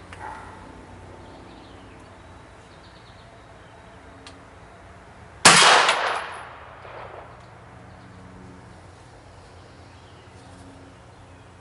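A single 9mm shot from a Kel-Tec Sub 2000 pistol-caliber carbine fitted with an SME sound mitigation cover, about five and a half seconds in, with a ringing tail that dies away over a second or so. The cover redirects the blast forward: at the shooter it sounds like a full 9mm blast, but one from a good distance away.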